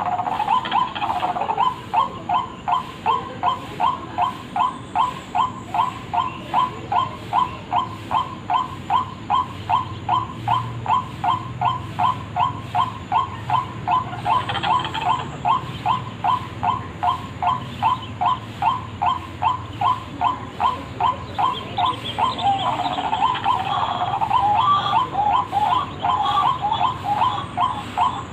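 White-breasted waterhen (ruak-ruak) calling, a lure recording: one short note repeated about twice a second in a steady, unbroken series. Near the end the calling grows busier, with overlapping notes.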